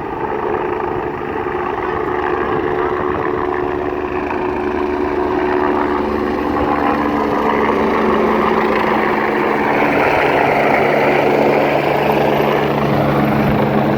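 LifeFlight medical helicopter running, a steady engine and rotor sound with several held tones that shift in pitch partway through, growing gradually louder as it comes in.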